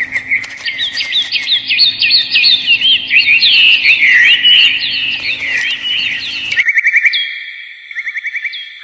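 Birds chirping busily, with many quick calls sweeping up and down and overlapping one another. About six and a half seconds in, the sound cuts abruptly to a thinner, faster trill of short repeated notes.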